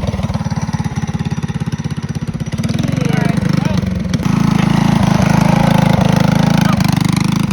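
Mini bike's small single-cylinder engine running close by, getting louder from about four seconds in as it is given more throttle.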